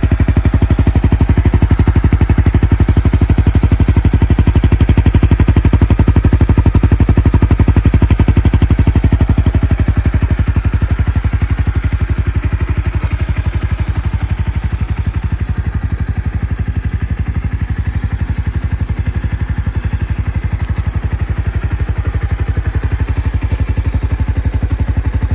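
Honda CBR300R's single-cylinder engine idling through a Yoshimura R77 stainless-steel slip-on exhaust with its baffle in. It gives a steady, rapid exhaust pulse and eases slightly about ten seconds in.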